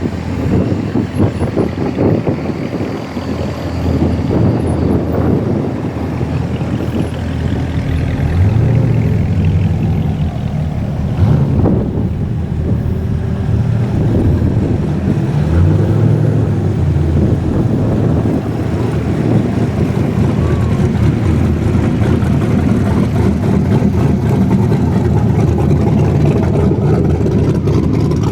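Corvette V8 engines running as the cars move. The engine pitch rises briefly several times as they accelerate.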